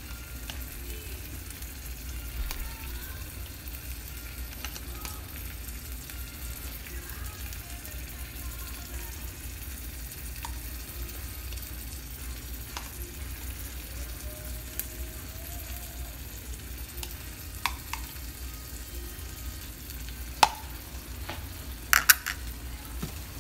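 Egg-white omelet frying in a skillet, a low steady sizzle. A few sharp clicks come near the end.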